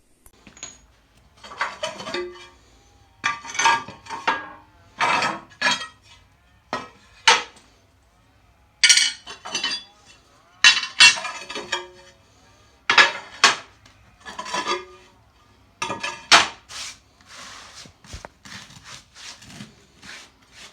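Ceramic tiles clinking and clattering against each other as they are lifted off and stacked, a string of separate hard knocks with short rings, turning to softer scraping and shuffling near the end.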